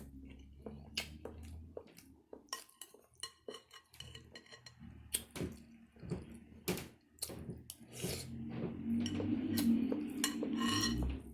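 Eating utensils clinking and scraping against a plate in quick, irregular clicks, growing louder and fuller near the end.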